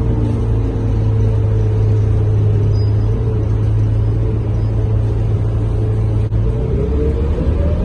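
Scania K230UB bus's five-cylinder diesel engine running steadily with a low drone, heard from inside the moving bus. Near the end the engine note rises as the bus accelerates.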